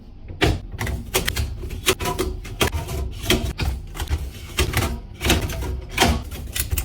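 Drinks being stacked into a refrigerator: a quick, irregular run of clicks and knocks as containers are set down on the shelves.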